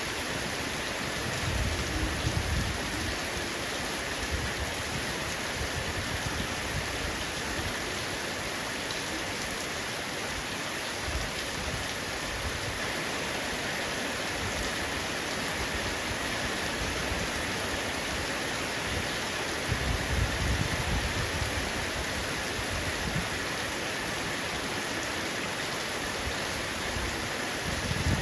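Heavy rain falling steadily on a roof, as an even hiss. Two brief low rumbles swell up, one about two seconds in and one about twenty seconds in.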